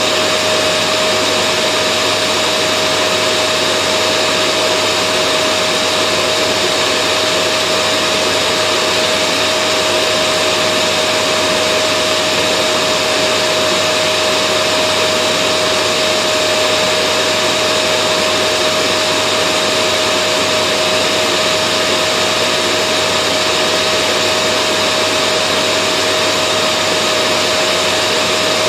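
Vacuum cleaner running steadily: a constant motor rush with a steady whine that holds one pitch throughout.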